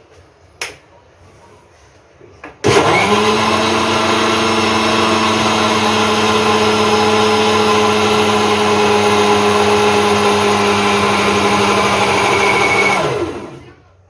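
Mixer grinder motor switched on about three seconds in, running at a steady high speed while it blends chopped apple and milk in the liquidizer jar. It is switched off near the end and winds down with a falling pitch. There is a short knock shortly before the motor starts.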